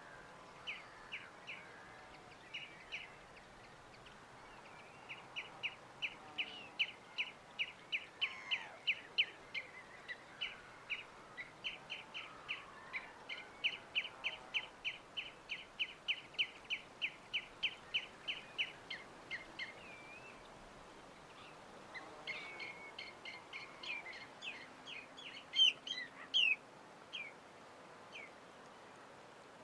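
Birds calling: a long run of short, evenly repeated chip notes, about three a second, then a busier cluster of louder, varied calls near the end.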